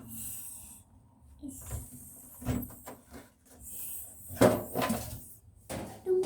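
Knocks, clicks and scraping from handling the metal parts of a desktop computer case and its front USB panel during a repair. There are several louder knocks midway and near the end.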